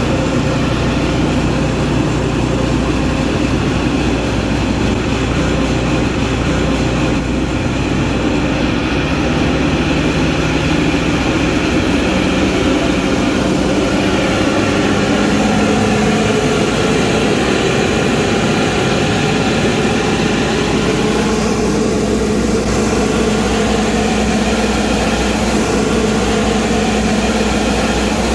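Scania vacuum loader truck running, a loud, steady machine drone of engine and vacuum unit; its pitch steps up slightly about twelve seconds in.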